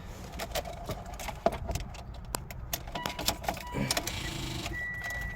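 Keys rattling and clicking at the ignition of a 2016 Mitsubishi Outlander, with a scatter of small clicks. Near the end a steady high electronic warning tone starts from the car.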